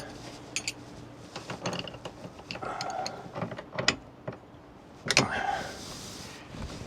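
Irregular metallic clicks and knocks of hand tools and parts being handled, with a louder clank about five seconds in.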